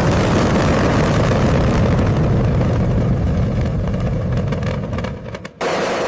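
A loud, steady engine-like mechanical rumble that thins out over the last couple of seconds, drops away sharply, and is replaced abruptly by a similar rumble just before the end.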